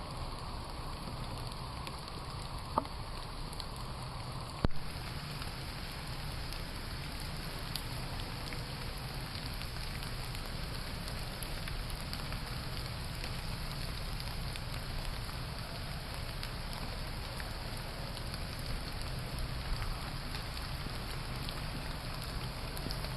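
Steady rain falling and pattering on the surroundings. A faint click comes about three seconds in and a louder sharp knock at about five seconds.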